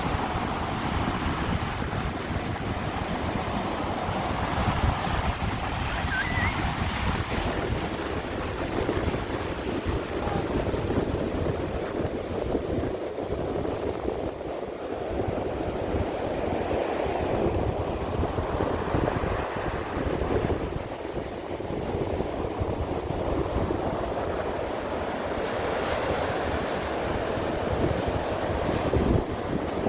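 Ocean surf washing in and out, rising and falling over several seconds, with wind buffeting the microphone as a low rumble.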